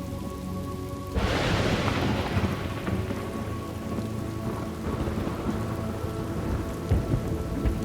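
Thunderstorm: steady rain with a thunderclap breaking about a second in, then rumbling and fading away over the next few seconds.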